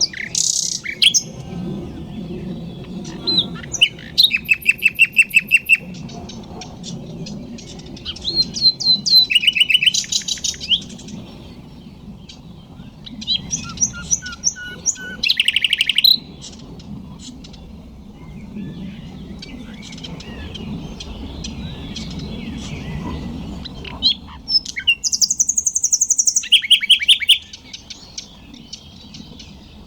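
Nightingale singing: about five loud, varied phrases built from fast runs of repeated notes and trills, with one low, pure whistled note in the middle, separated by pauses of a few seconds.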